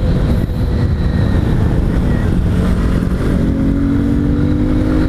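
Honda Bros 160's single-cylinder engine running on the road with the intake snorkel removed from its air-filter box, which makes the intake louder. About three seconds in the engine note rises steadily as the bike accelerates.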